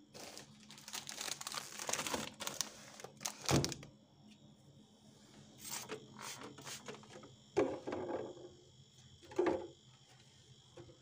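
Packaging crinkling and rustling as it is handled, for about four seconds, then a few separate knocks of items being set down in a pantry cupboard.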